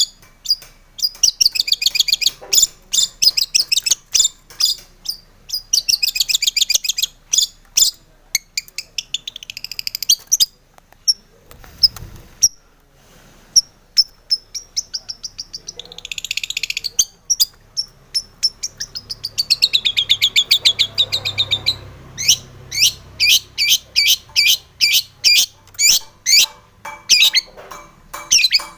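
Long-tailed shrike (cendet) singing: fast runs of sharp, repeated chattering notes and trills, broken by brief pauses.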